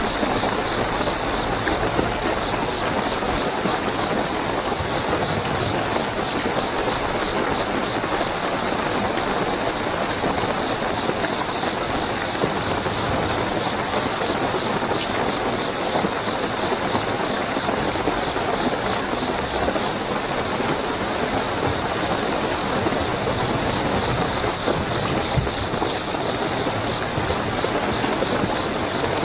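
Steady heavy rainfall, with a continuous high-pitched trill of night crickets above it.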